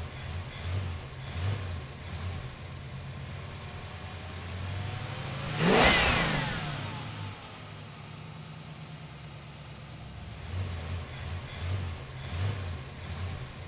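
A car speeds past with its engine revving, loudest about six seconds in, its pitch dropping sharply as it goes by. Around it, a car engine runs and revs in short low pulses.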